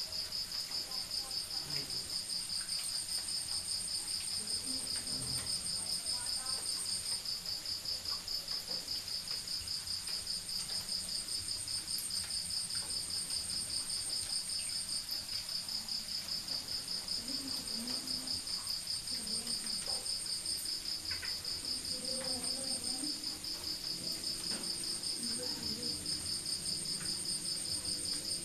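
Crickets chirping at night: a steady, fast-pulsed high trill, with a second, higher trill that stops and starts again several times.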